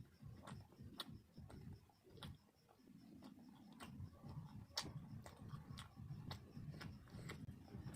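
A person chewing food with irregular mouth clicks and lip smacks over a low chewing rumble.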